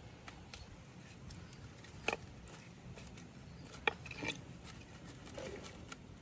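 Scattered light knocks and clicks of things being handled, two sharper ones about two and four seconds in, over a faint steady background hiss.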